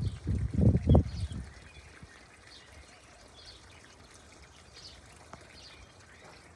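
Nature ambience: a few loud low thumps in the first second and a half, then faint trickling water with soft high chirps about once a second.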